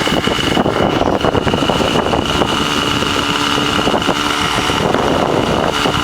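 Radio-controlled amphibious model plane's motor and propeller running steadily with a constant high whine, over heavy wind buffeting on the microphone.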